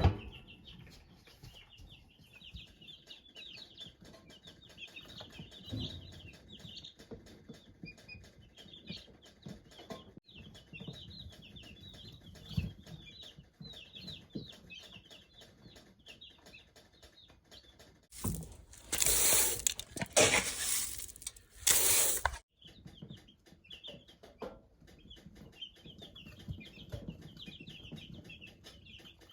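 Baby chicks peeping, a steady stream of short high cheeps. Between about 18 and 22 seconds in, a louder rushing noise comes and goes three times over them.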